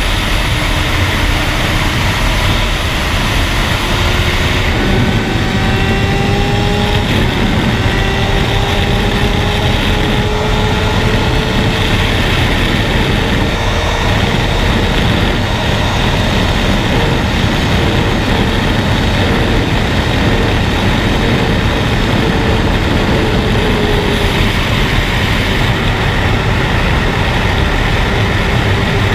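Sport motorcycle engine running under steady load, its pitch climbing slowly and evenly, then holding, under heavy wind rumble. This is likely the rider's own 2007 Suzuki GSX-R 750 inline-four with an Akrapovic exhaust.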